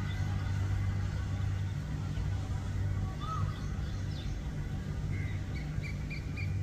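A steady low rumble, with a small bird chirping from about five seconds in: a quick, even run of short high notes, about three a second.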